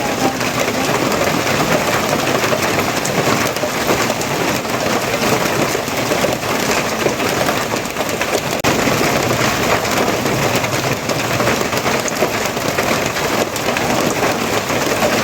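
Steady heavy rain, an even, continuous hiss of downpour on surfaces.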